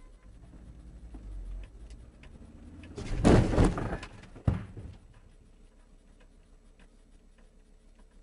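A car collision: a loud crashing impact about three seconds in that lasts about a second, then a second sharp knock at about four and a half seconds, over a low rumble.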